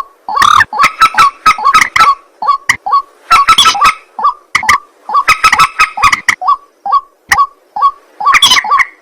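White-breasted waterhen (ruak-ruak) calling loudly: harsh, croaking notes repeated in quick bursts, the bursts coming about once a second with short gaps between.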